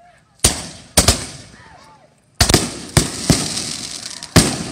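Fireworks exploding in a series of sharp bangs: one about half a second in, a quick pair about a second in, a rapid cluster of five or so from about two and a half to three and a half seconds, and one more near the end, each trailing off in an echo.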